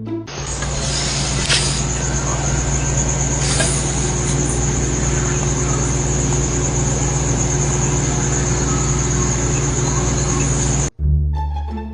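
Steady mechanical noise with a low hum and a thin high whine, cutting off abruptly near the end.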